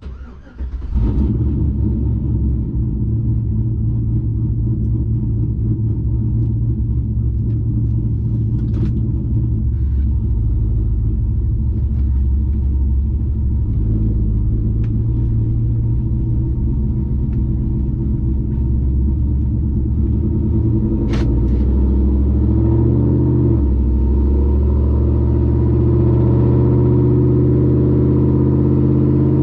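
V8 pickup truck engine running under a loud aftermarket exhaust, a steady low drone; the engine note climbs a little after about twenty seconds.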